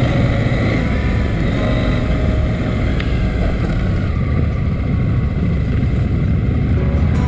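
A steady low rumble with faint music notes beneath it.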